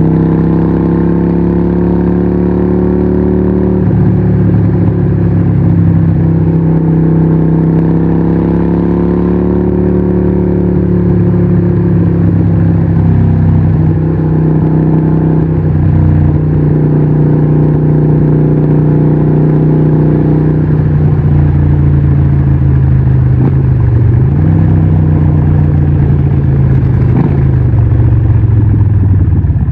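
Harley-Davidson 1200 Nightster's 1200cc Evolution V-twin running through Vance & Hines pipes at a steady engine speed. Its note eases lower through the last third, with a brief dip and pick-up about two-thirds of the way through.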